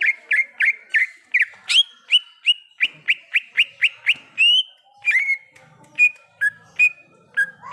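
Cucak ijo (green leafbird) singing vigorously. A fast run of short, rising whistled notes, about three a second, gives way about halfway through to sparser, more varied notes.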